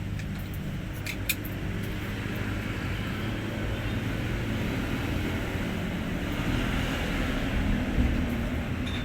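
Diesel engine of a Hino 500 truck running steadily.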